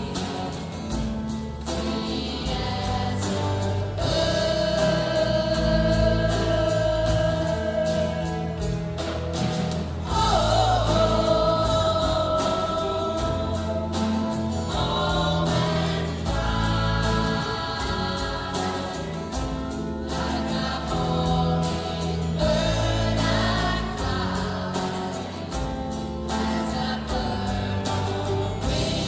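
Music with a choir singing long held notes over a steady beat and bass.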